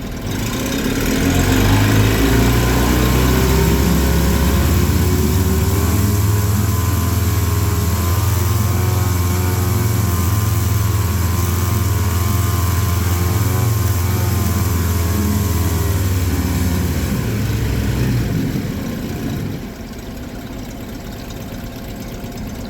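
Mid-1980s Honda 7.5 hp four-stroke outboard running in forward gear. It speeds up over the first couple of seconds, holds a steady higher speed, then is throttled back down about eighteen to twenty seconds in.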